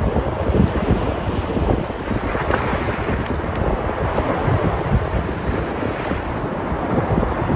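Sea surf washing in steadily as waves break along the shore, with wind buffeting the microphone.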